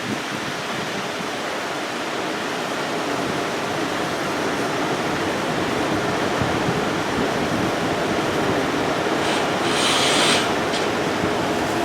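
Wind rushing over the microphone as a steady noise that slowly grows louder, with a short, sharper hiss about ten seconds in.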